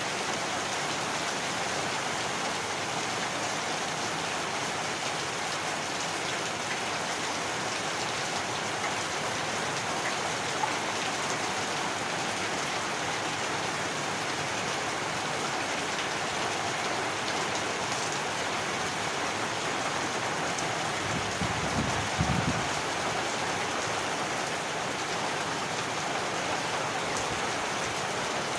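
Heavy rain falling steadily, an even hiss of drops hitting surfaces. About three-quarters of the way through, a brief low rumble rises and fades within a second or two.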